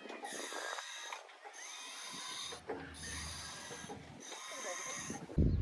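Outdoor fitness machine squeaking rhythmically as it is worked back and forth, one long squeak about every second and a half with short breaks at each turn of the stroke. Heavy low rumbling on the microphone starts near the end.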